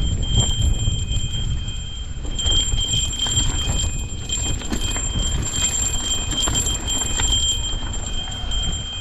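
Mountain bike rattling over a rough, wet trail, with a dense run of clicks and knocks over a heavy low rumble of wind and movement on the microphone. A steady high ringing whine sounds throughout.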